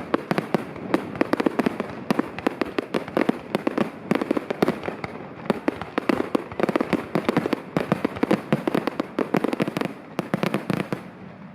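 Fireworks display going off in a dense, rapid barrage of bangs and crackles, many per second, thinning out and quietening near the end.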